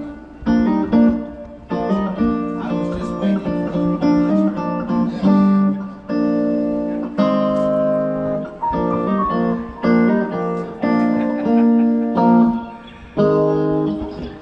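A guitar played through an amp during a soundcheck: a run of chords, some short and some held for about a second, with brief gaps between them.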